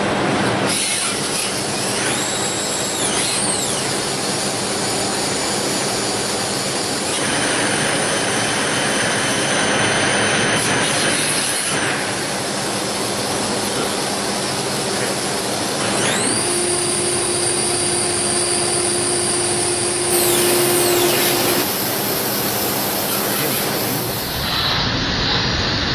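Citizen Swiss-type CNC lathe machining a bone screw with low-frequency vibration cutting: steady cutting and coolant noise under high whines that rise and fall several times as the spindle changes speed, with a steady hum for a few seconds past the middle.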